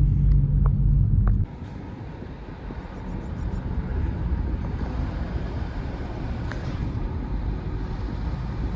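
Car on the move: low engine and road rumble, which cuts off suddenly about a second and a half in to a quieter, steady rumbling noise.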